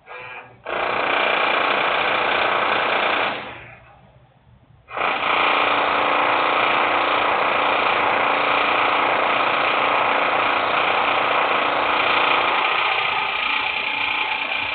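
Loud industrial machinery or tool noise in two long bursts: one of about three seconds, a short pause, then one of about ten seconds that stops near the end.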